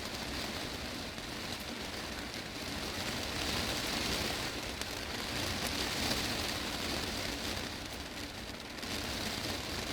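Heavy rain drumming on a glass greenhouse roof, a dense steady patter that swells a little heavier in the middle.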